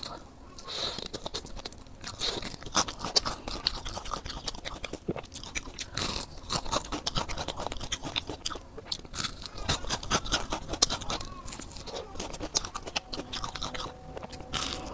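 Close-miked crunching and chewing of a deep-fried, crumb-coated skewer: a rapid, irregular run of crisp crackles as the crust is bitten and chewed.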